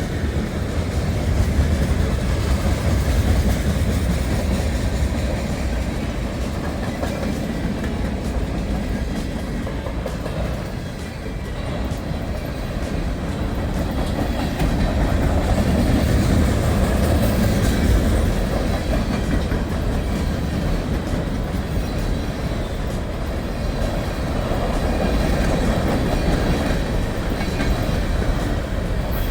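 A train rolling past: a steady, loud noise of wheels on the rails that swells and eases slowly, with no horn.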